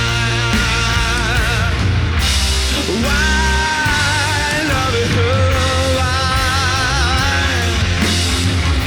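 Rock music played by a band, its lead melody held in long wavering notes over a dense, steady backing.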